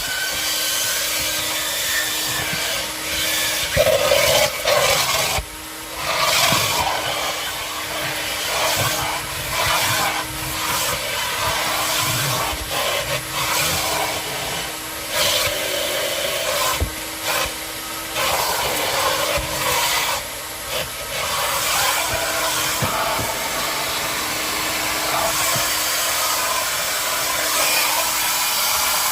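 A small vacuum cleaner running steadily, its motor tone holding throughout, with repeated brief dips and scraping as the nozzle is worked over the car's interior surfaces.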